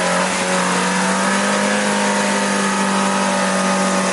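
Off-road jeep's engine revved up and held at high revs, its pitch steady, over a dense rushing noise. Near the end the revs begin to drop.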